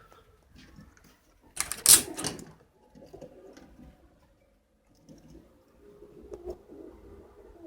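Domestic pigeons cooing softly, with a brief loud clatter about two seconds in.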